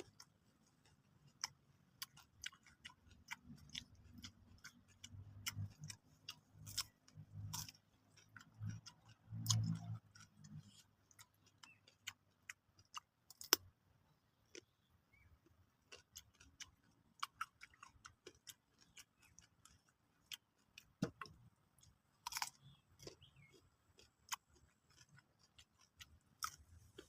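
Close-up chewing of raw papaya rujak: many short crunches and wet mouth clicks, with low hums now and then in the first half.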